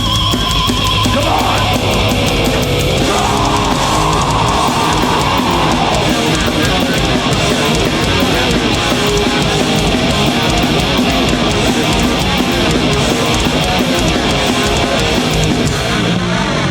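Live heavy metal band playing loud, with distorted electric guitars and fast drums; a bending guitar line stands out in the first few seconds.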